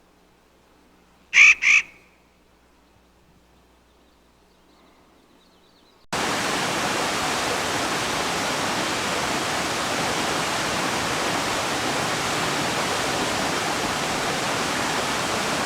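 Two short, loud calls in quick succession from an animal, then, about six seconds in, a sudden switch to a steady, loud rush of falling water.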